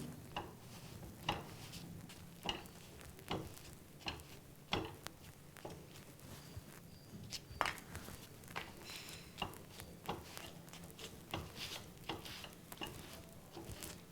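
Urad papad toasting dry on a hot tawa while it is pressed and turned with a cloth: faint, irregular crackles and scuffs, about one every second.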